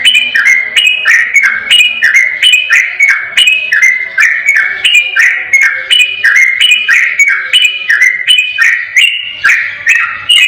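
Sooty-headed bulbul (trucukan) singing a rapid, unbroken 'ropel' song: short clear whistled phrases repeated two or three times a second, each stepping between higher and lower notes.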